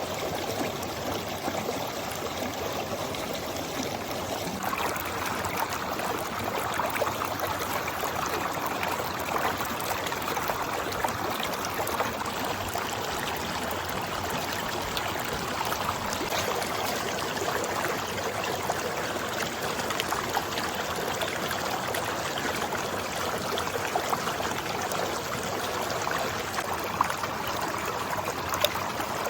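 Steady rushing of a flowing stream, with a shift in its sound about five seconds in.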